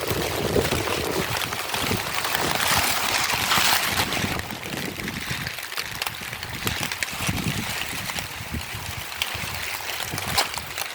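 Heavy rain falling steadily, a dense hiss dotted with many small drop ticks, swelling for a while about three seconds in.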